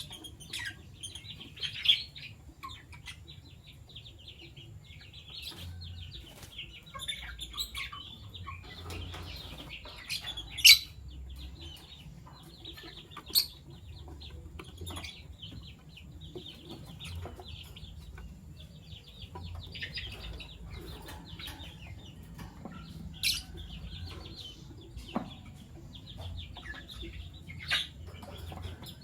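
Fischer's lovebirds chattering: a continuous rapid, high-pitched twittering, broken by a handful of sudden, louder sharp chirps, the loudest about ten seconds in.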